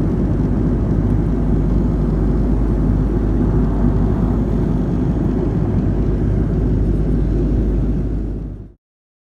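Airbus A330-200 airliner's steady engine and airflow rumble, mostly low in pitch, cutting off suddenly near the end.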